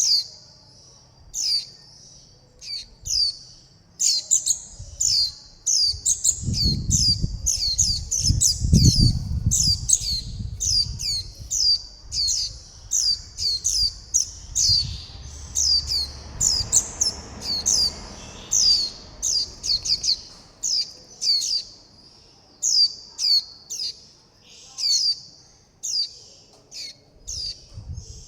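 Young white-eyes giving short, high, down-slurred chirps over and over, about two a second and faster in the middle: contact and begging calls of fledglings calling for their parents and for food. A low rumble sits under the calls for a few seconds about a quarter of the way in.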